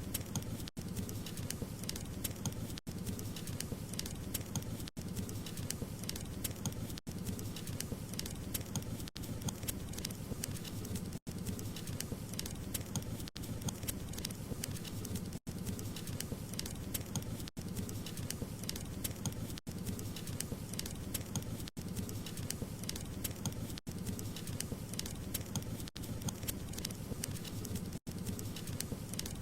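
Wood fire crackling, many small sharp crackles over a steady low rush of burning, with brief dropouts about every two seconds.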